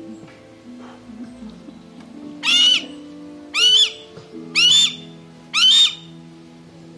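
A bird of prey calling four times, about once a second, each a short rising cry, over background music.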